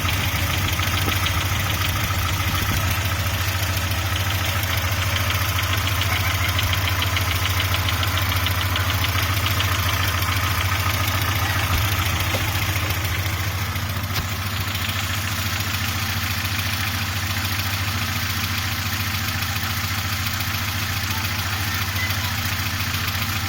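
Audi 80 B3 engine idling with a fast, even knock coming from the engine, the fault the owner is showing. About fourteen seconds in, the sharper part of the knock grows fainter while the idle carries on steadily.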